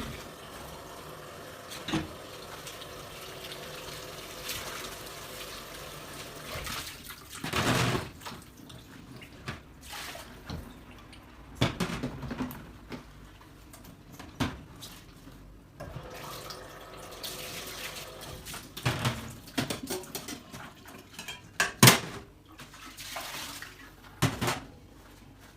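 Tap water running into a sink for the first several seconds, then dishes knocking and clinking as they are handled, with one sharp clink near the end standing out as the loudest.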